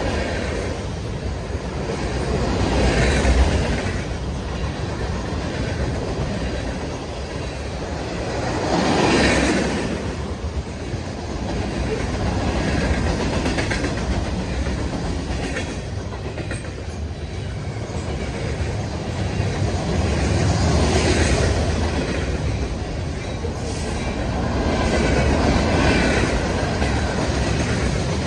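A mixed freight train's boxcars and covered hoppers rolling past close by, a continuous sound of steel wheels running on the rails that swells louder and fades again every several seconds as the cars go by.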